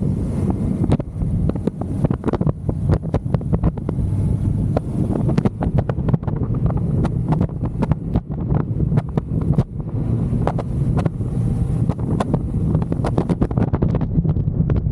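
Motorcycle on the move: the engine runs steadily under heavy wind buffeting on the microphone, which crackles irregularly throughout.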